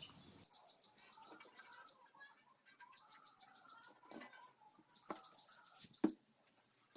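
An insect chirping in rapid high-pitched trills about a second and a half long, repeated with short pauses. A few short knocks fall between the trills, the loudest about six seconds in.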